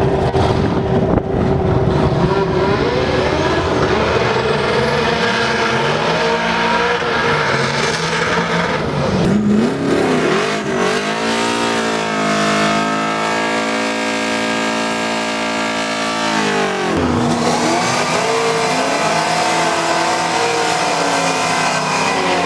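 Drag cars' engines revving hard during burnouts, rear tyres spinning. The revs climb and fall, then hold steady at a high pitch for several seconds around the middle before wavering up and down again.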